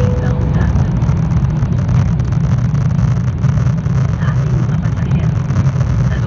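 Steady low rumble of engine and airflow noise inside an Airbus A330 airliner's cabin, even in level throughout.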